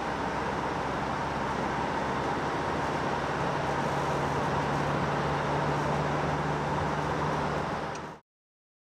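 Mercedes-Benz Vito 114 CDI van's four-cylinder turbodiesel running at a steady engine speed under way, with road noise, a low drone settling in partway through. The sound cuts off suddenly about eight seconds in.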